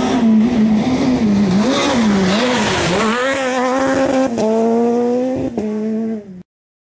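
Race car engine revving, its pitch swinging up and down, then held steady at high revs with two brief breaks. It cuts off suddenly near the end.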